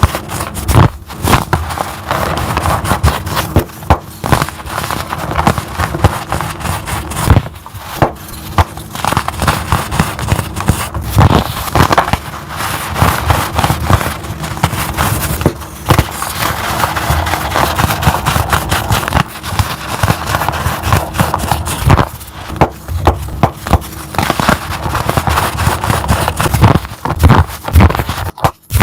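Crumbly chalk blocks being crushed, a dense, continuous run of crackling crunches that stops suddenly near the end.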